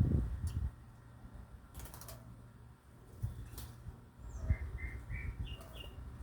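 Small birds chirping: a run of short chirps in the second half, with a few sharp clicks and low thumps scattered through.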